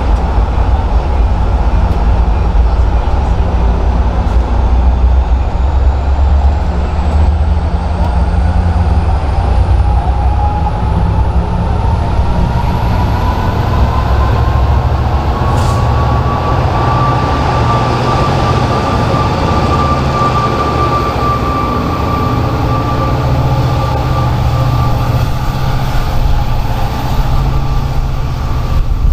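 Diesel train running close by with a heavy low engine rumble. A whine rises in pitch over several seconds about a third of the way in, then holds steady.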